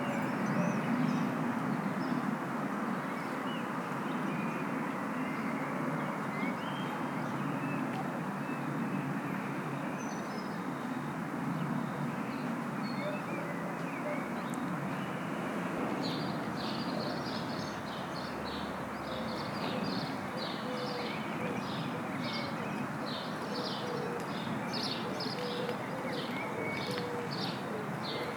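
Steady background rumble with small birds chirping in quick high notes, starting about halfway through.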